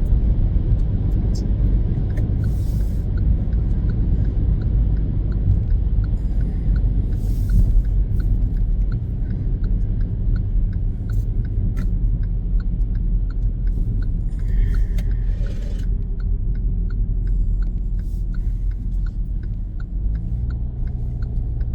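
Car driving along: a steady low rumble of engine and road noise, with a light regular ticking about twice a second.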